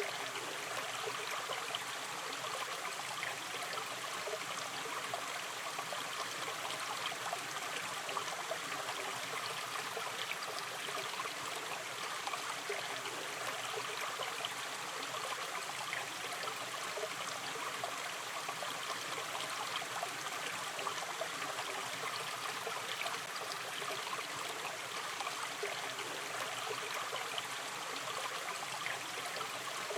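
Gently running river stream: a steady, even rush of flowing water with small trickles and gurgles.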